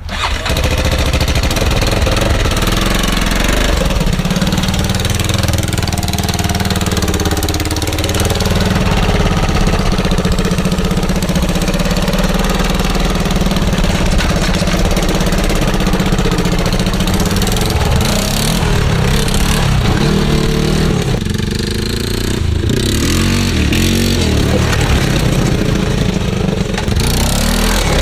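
Honda 400EX quad's single-cylinder four-stroke engine running through a rigged-up muffler that replaces its straight pipe, its pitch rising and falling several times in the second half as it is revved.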